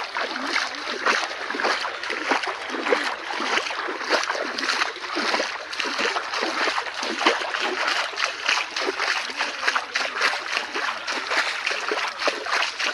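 Floodwater splashing and sloshing, a dense run of irregular splashes that stops abruptly about a second after the end.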